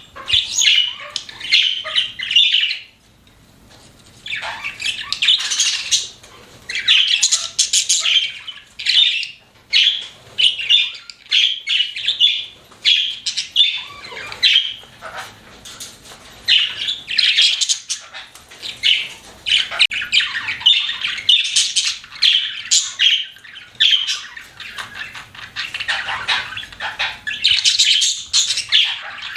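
Pet budgerigars chirping and chattering continuously, with rapid high warbles and squawks, pausing only briefly about three seconds in.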